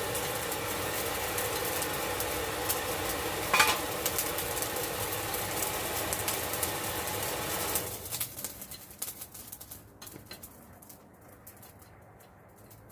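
A forge running with a steady rushing noise and a low hum, with one brief louder burst about three and a half seconds in. After about eight seconds the noise falls away, leaving faint scattered crackles.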